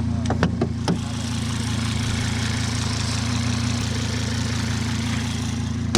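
Volvo XC70's engine running steadily under an even hiss, with a few sharp clicks in the first second.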